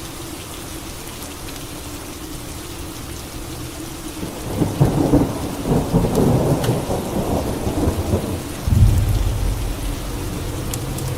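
Steady rain with a thunderclap: about four seconds in, a crackling roll of thunder builds, and a deep low rumble follows near the end.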